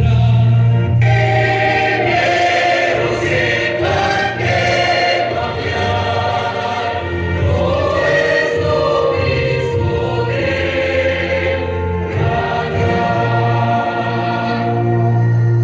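Music with a choir singing over a held low bass note.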